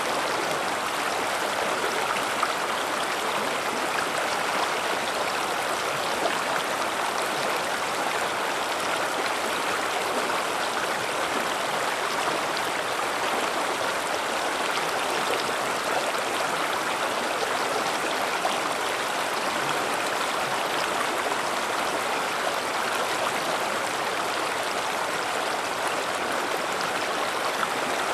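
River water flowing steadily over rocks, a continuous rushing with no changes in level.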